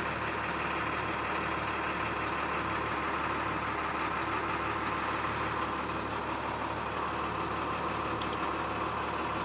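MaxxForce DT inline-six diesel of a school bus idling steadily, heard from inside the cab. A faint click about eight seconds in.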